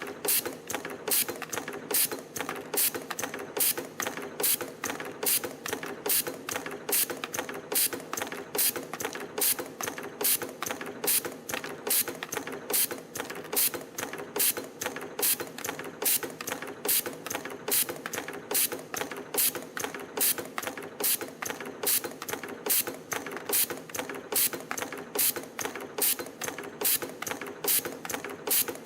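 CNC spring-making machine (CT-210) coiling 1.0 mm wire into torsion springs. It runs in a steady, even cycle of sharp mechanical clicks, with the loudest strike a little more than once a second (about 72 springs a minute), over a constant machine hum.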